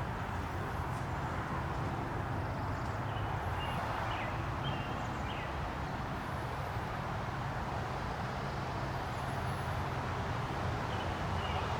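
Steady outdoor background noise with a low rumble throughout. A few faint, short high chirps come around the middle and again near the end.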